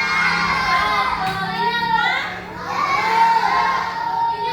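Children singing a song, with sustained, gliding sung notes and a short dip about two and a half seconds in. A steady low hum sits underneath.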